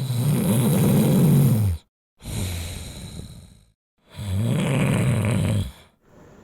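Miniature dachshund snoring: two loud snores, the second about four seconds after the first, with a quieter breath between, and each cut off by a moment of dead silence.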